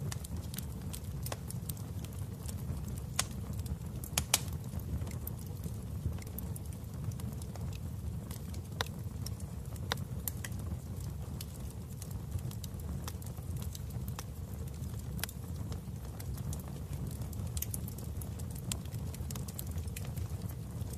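Wood fire burning in a fireplace: a steady low rumble with sharp, irregular crackles and pops, the loudest about three and four seconds in.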